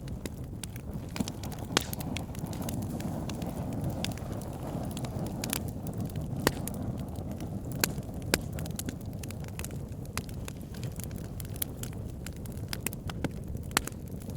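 Wood fire burning: a steady low rush of flame with sharp, irregular crackles and pops from the logs.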